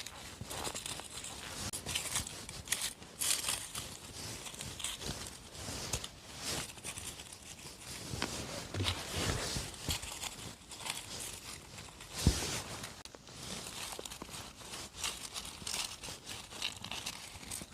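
Irregular rustling and crackling of forest-floor leaves and moss underfoot and under the hands while mushrooms are picked, with scattered soft steps and one sharp knock about twelve seconds in.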